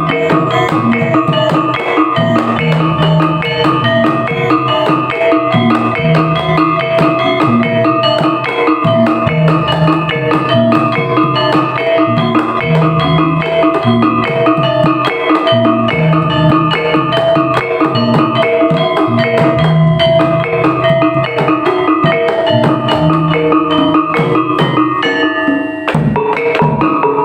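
Javanese Topeng Ireng dance music: drums with tuned metal percussion, playing a loud, steady, repeating pattern. The texture changes briefly about a second before the end.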